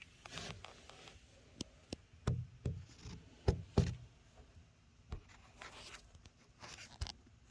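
Copper water pipes ticking and knocking at irregular intervals, with a cluster of louder knocks about two to four seconds in. The owner is unsure whether this is the copper expanding with temperature or water hammer.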